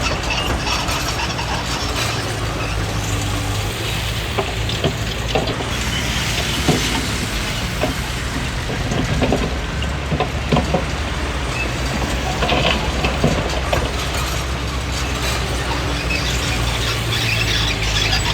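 Small crawler bulldozer (Komatsu D20P) working: its diesel engine runs steadily under scattered clanks and squeals from the steel tracks and blade.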